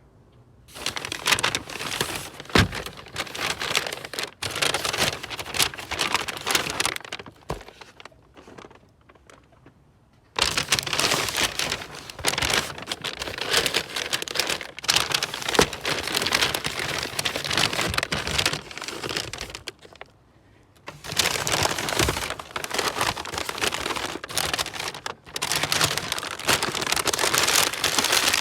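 Paper grocery bags rustling and crinkling as they are handled and carried, in three long stretches with short pauses between them.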